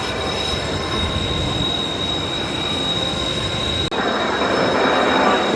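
Airliner jet engines running with a steady high-pitched whine over a rushing roar. About four seconds in, the whine stops abruptly and a louder rushing noise takes over.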